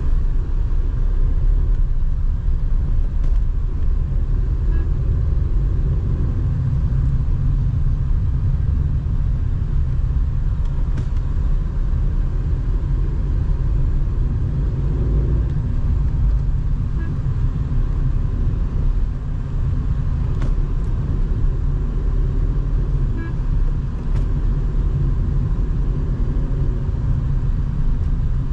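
Tata Nexon SUV on the move in traffic: a steady low rumble of engine and road noise.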